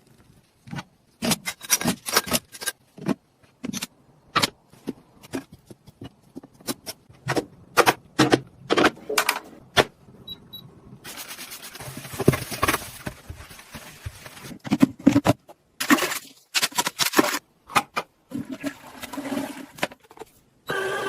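Irregular sharp clicks, knocks and clatters of objects being handled, with scraping and two longer stretches of rushing noise, one about eleven seconds in and one about sixteen seconds in.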